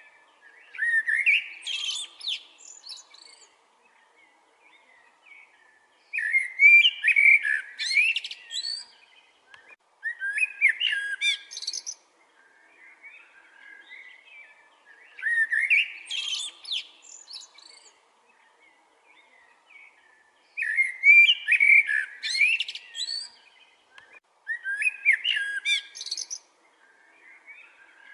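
A songbird singing: a short, complex song phrase of quick rising and falling notes, repeated about every four to five seconds, with faint twittering in the gaps.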